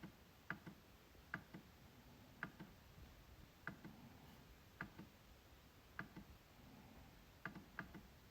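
MacBook trackpad being clicked: sharp single clicks at irregular intervals of about a second, many heard as a quick press-and-release pair, with a fast run of three clicks near the end.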